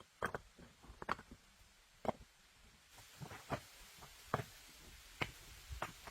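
A series of about nine sharp, irregular knocks and clicks, with a soft hiss starting about halfway through.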